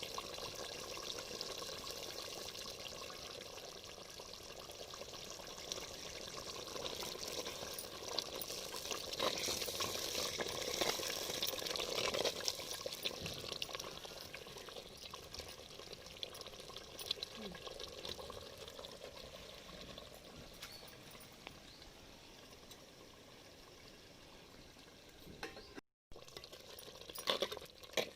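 Chicken curry in a thick gravy simmering and sizzling in the pot, with a spoon stirring now and then; louder for a few seconds in the middle, with a brief dropout and a few clinks near the end.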